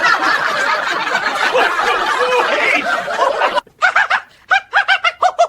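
Several people laughing together, cutting off suddenly about three and a half seconds in. Then a single voice laughs in short, evenly spaced 'ha's, about four or five a second.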